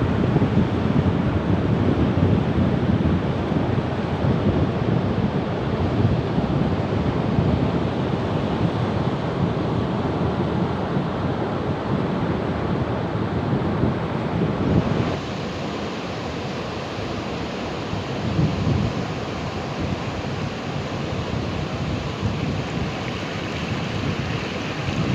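Ocean surf washing and breaking continuously, with wind buffeting the microphone. About fifteen seconds in, the sound cuts abruptly to a slightly quieter, different recording.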